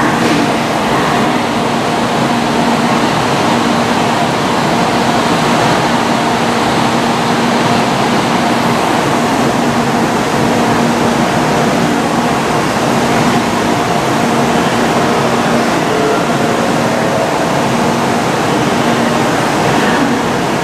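Stationary N700-series Shinkansen train's onboard equipment running at the platform: a steady rushing of cooling and ventilation fans with a low hum underneath.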